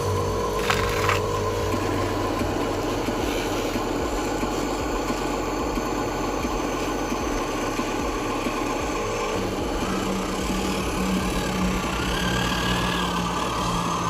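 Radio-controlled model truck running with a steady mechanical hum and whirring.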